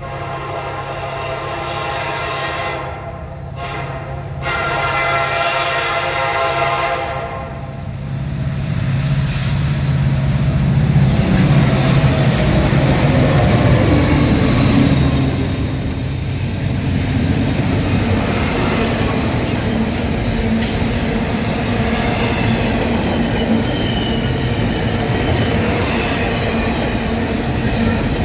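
Diesel locomotive horn sounding three blasts, the last and longest ending about seven seconds in, as a Norfolk Southern freight train with three locomotives approaches. The locomotives then pass with a loud diesel engine rumble, followed by the steady clatter of freight cars rolling over the rails.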